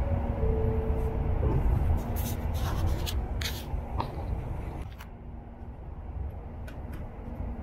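Low rumble of a Shinkansen train with a steady hum that stops about a second and a half in, overlaid by close rubbing and scraping with a few sharp clicks.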